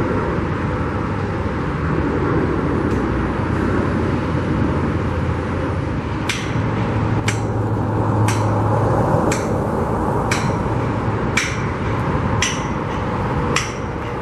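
Hammer blows on steel, about one a second from about six seconds in, each with a metallic ring: the pins joining a crane's boom sections being knocked out to dismantle the boom. Steady engine and traffic rumble underneath.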